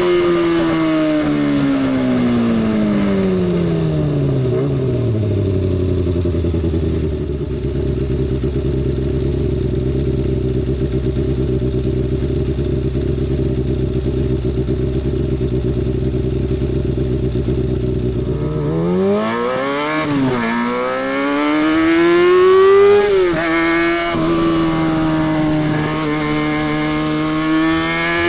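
Kawasaki Balius 250's inline-four engine and exhaust. The engine note falls as the bike slows and then sits at a steady idle for about twelve seconds. Near the end the revs climb again as it pulls away, with quick dips at the gear changes.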